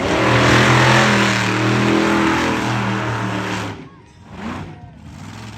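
Engine of a stunt-show vehicle revving hard at high, fairly steady pitch, then dropping off sharply a little under four seconds in.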